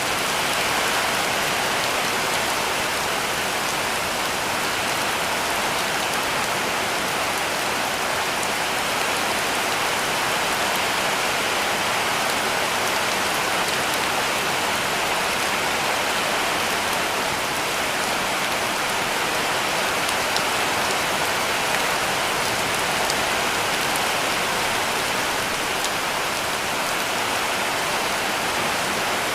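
Heavy rain falling steadily on a cabin roof: an even, unbroken hiss with scattered sharper drop taps.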